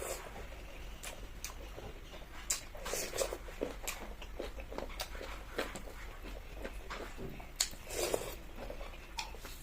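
Close-up eating sounds: chewing and mouth smacks, with scattered short sharp clicks.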